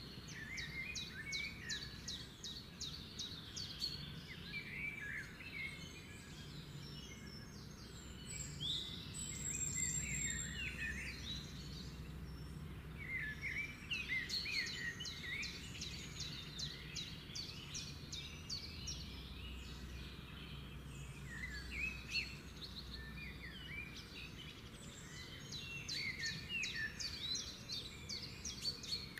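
Birds chirping and trilling repeatedly in the background, over a low steady hum.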